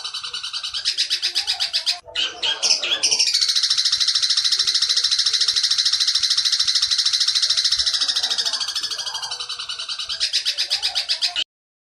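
Long-tailed shrike (cendet) singing its 'petir' song: a loud, harsh, very fast continuous trill. It breaks off about two seconds in for a few scratchy notes, then runs on and stops suddenly near the end.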